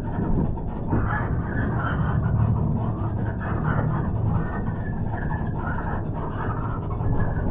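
City bus running, heard from inside the passenger cabin: a steady low engine and road rumble.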